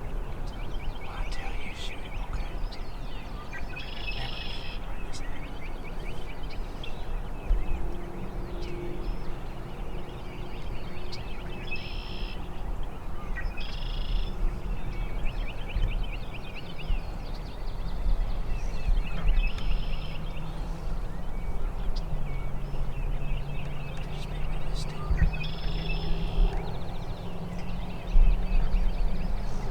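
Wild turkey toms gobbling about five times, spread out with long gaps between, over a steady low rumble with faint small bird chirps.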